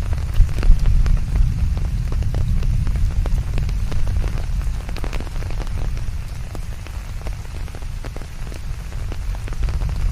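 Steady rain falling on leaves, many separate drops pattering close by over a continuous hiss, with a steady low rumble underneath.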